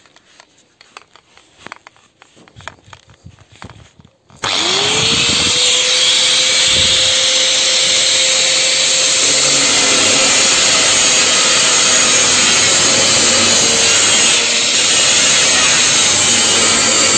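Electric power tool cutting a steel drum in half. After a few seconds of faint handling clicks, the motor starts about four seconds in, its pitch rising quickly and then holding, and runs loud and steady through the metal until it stops near the end.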